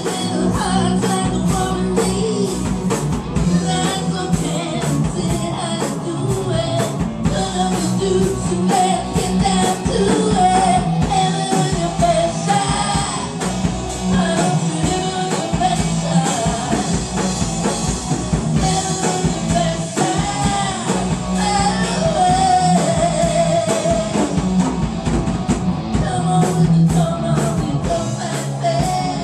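Rock band jamming, with a singer over drums, guitar and bass, playing continuously with a steady drum beat.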